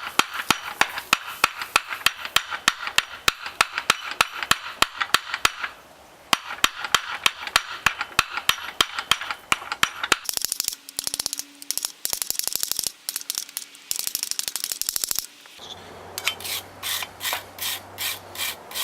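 Ball peen hammer striking a hot rebar spoon blank in quick, steady blows, several a second, to dish the bowl into a softwood block, with two short pauses. Near the end, slower rasping strokes of a brush scrubbing the metal.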